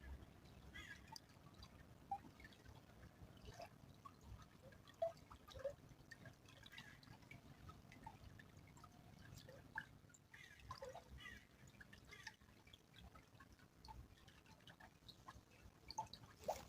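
Faint trickle of a small stream, with many small irregular plinks and drips of water at varying pitches.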